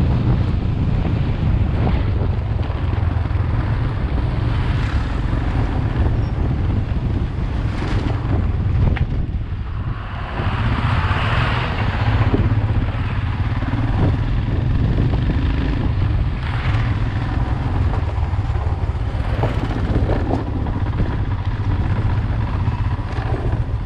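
Motorcycle engine running steadily with wind noise on the microphone. A hissing rush swells for a couple of seconds about halfway through.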